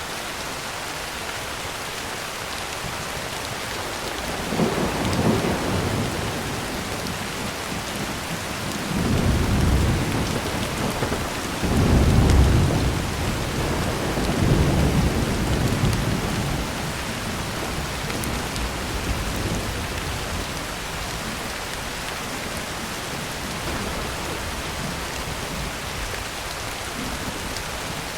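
Heavy rain drumming steadily on a tin roof, with a long roll of thunder rumbling through the middle in several deep swells, loudest about halfway, before fading back to the rain alone.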